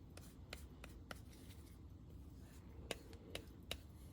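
Gerber Propel Downrange knife blade being stropped: a series of short, faint swipes, about two a second, with a pause of about a second and a half in the middle.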